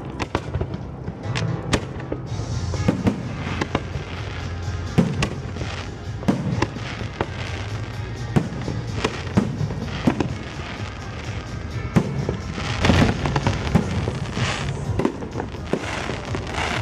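Fireworks going off in quick succession, many sharp bangs, with a denser flurry about twelve seconds in, over music playing throughout.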